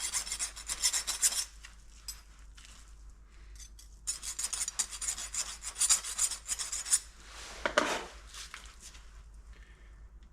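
Scraping, rasping rubs of hand-handled engine parts, in two stretches: about a second and a half at the start and about three seconds in the middle, then one short scrape near the end.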